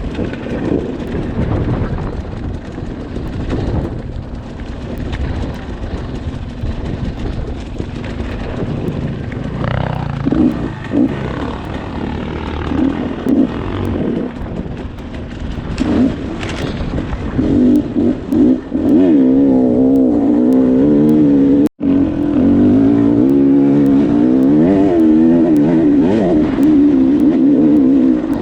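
Dirt bike engine running and revving under load, its pitch wavering up and down as the throttle changes; it grows louder and steadier about two-thirds of the way through, with a brief cut-out near the end.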